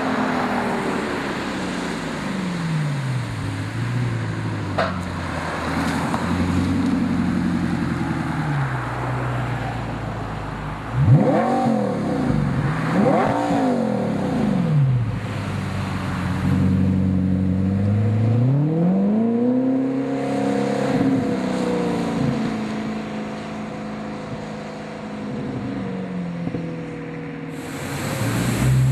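Audi R8's 4.2-litre V8 sounding through a Fabspeed Supersport exhaust, its engine pitch rising and falling again and again. Two sharp rev blips come about eleven and thirteen seconds in, then a longer climb and drop in revs around twenty seconds.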